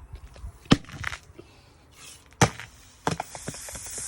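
Two sharp knocks about a second and a half apart. Then, about three seconds in, a quick run of clicks and a steady hiss begins: fizzing Coke spraying out of a capped, leaking bottle reacting with Mentos.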